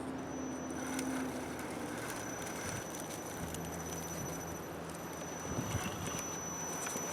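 Scale RC crawler's Tekin 35-turn brushed electric motor and drivetrain whining as the truck crawls over rough ground, the pitch shifting with throttle and easing off before picking up again about three seconds in, with a thin high electronic whine and light clicks of tyres and rocks.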